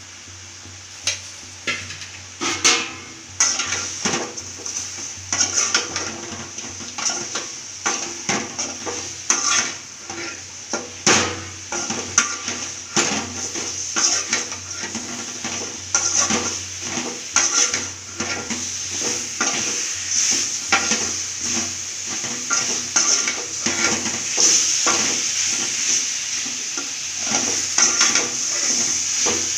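A utensil stirring and scraping against a cooking pan, with irregular clanks, over a steady sizzle of frying food; the stirring starts about a second in.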